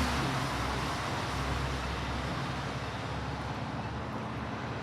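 Steady road traffic noise with a low engine hum, easing off slightly over the first few seconds.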